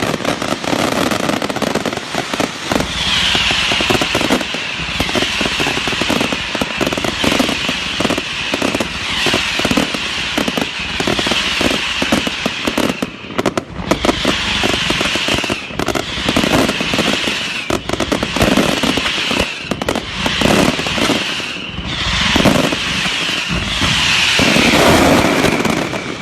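Firecrackers going off in a dense, rapid crackling string. A high tone repeats over them roughly once a second.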